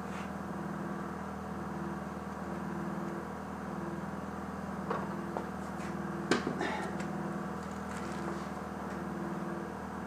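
Steady machine hum with a slow on-off pulsing, under a few light clicks and a sharper knock about six seconds in, as tools and the wheel are handled.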